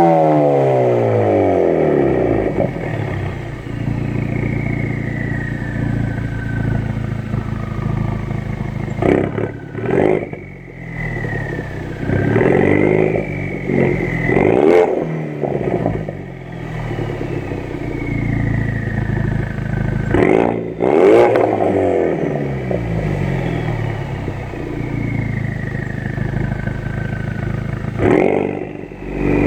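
A 2016 Ford Focus RS's 2.3-litre turbocharged four-cylinder running through an aftermarket Scorpion exhaust. It is revved several times, the pitch climbing and dropping back with each rev, with steadier stretches between.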